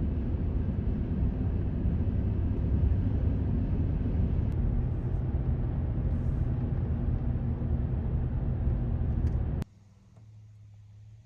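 Steady low rumble of a vehicle running, with a faint engine hum in it; it cuts off suddenly near the end, leaving only a faint low hum.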